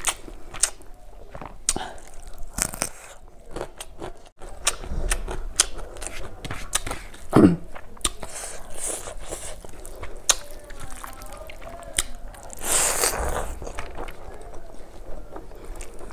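Close-miked chewing and wet mouth sounds of someone eating rice and fish curry by hand, with many sharp smacking clicks. A short, loud falling sound comes about seven seconds in, and a breathy rush about thirteen seconds in.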